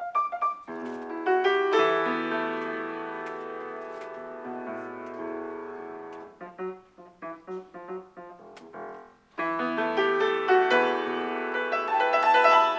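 Piano improvisation. A few quick notes lead into a held chord that rings and slowly fades. A run of short, detached notes follows, then a brief break about nine seconds in before louder chords resume.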